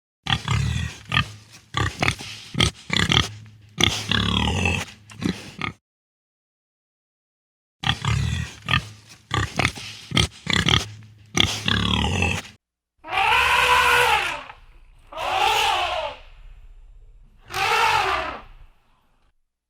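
Pig grunting in quick runs of short, low calls, broken once by an abrupt cut, then three longer calls that rise and fall in pitch.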